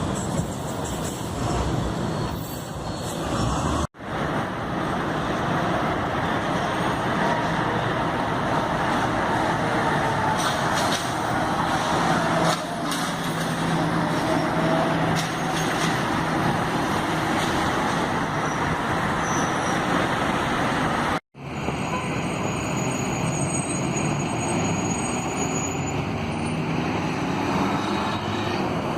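Road traffic with a heavy bus running by, in three stretches split by abrupt cuts; in the middle stretch a faint whine glides up and down in pitch.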